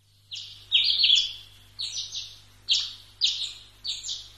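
Birdsong: a small bird chirping in short phrases of quick, high, falling notes, about two phrases a second, starting just after the track begins. A faint steady low hum sits underneath.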